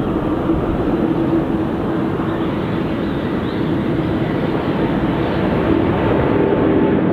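Jet airliner engines running: a loud, steady noise with a droning tone underneath, and a higher tone joining about six seconds in.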